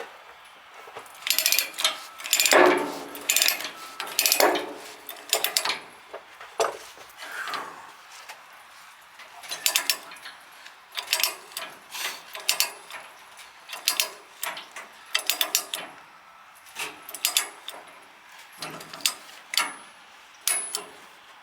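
Steel tie-down chains and binders being handled while securing an excavator to a trailer: irregular metallic clinks, rattles and clanks throughout.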